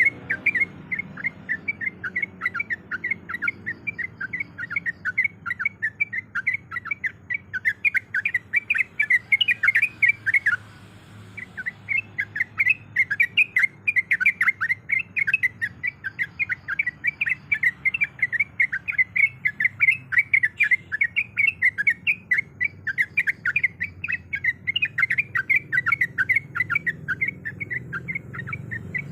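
Yellow-vented bulbul (trucuk) singing a fast, continuous run of short chattering notes, several a second, with a brief pause about a third of the way in. This is a lure recording meant to get a silent caged bird to answer.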